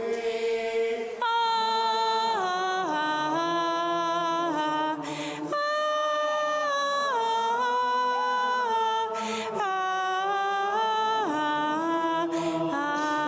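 A single voice singing unaccompanied Latin plainchant: long held notes that step up and down in pitch, with short breaths between phrases.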